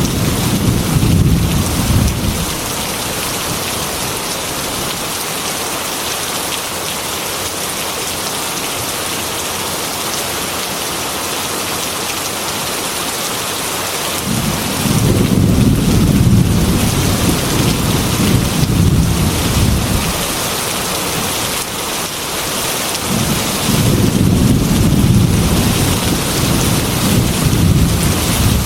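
Heavy rain falling steadily, with rolling thunder rumbling three times: one roll fading out about two seconds in, a long roll from about halfway through, and another near the end.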